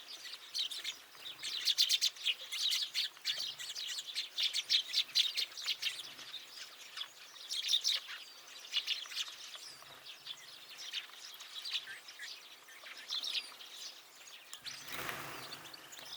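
Small songbirds at a winter feeder chirping in a busy, overlapping chatter of short high notes that thins out after the first half. A brief rush of noise comes near the end.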